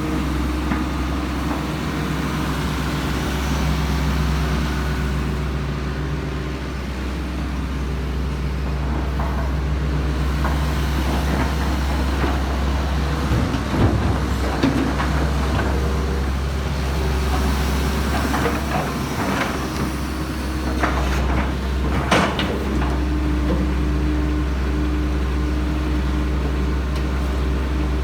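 Heavy diesel engines running steadily with a deep low rumble, with two brief sharp knocks: one about halfway through and another about eight seconds later.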